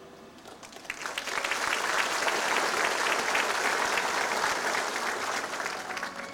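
Audience applauding, swelling up about a second in and tapering off near the end.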